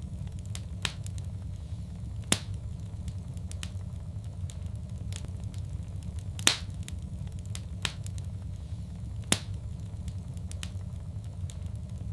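Wood fire crackling: sharp pops and snaps at irregular intervals over a steady low rumble of burning, with three loud pops standing out.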